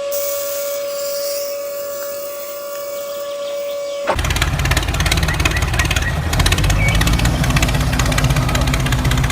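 A steady whistle over a hiss, cut off about four seconds in by a louder, rapidly pulsing engine-like running noise.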